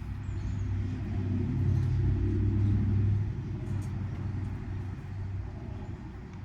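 A low engine rumble that swells to its loudest about two to three seconds in, then fades back.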